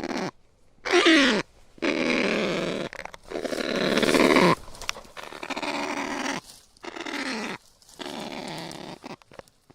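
Kakapo calling: a run of harsh, rasping calls, each up to about a second long with short gaps between them. One about a second in falls in pitch, and the loudest swells up around four seconds in.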